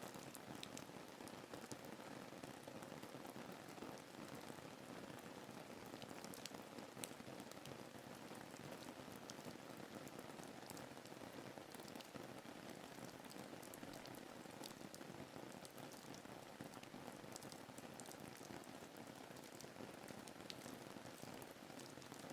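Steady soft rain ambience, an even hiss of rainfall with scattered sharp drop ticks.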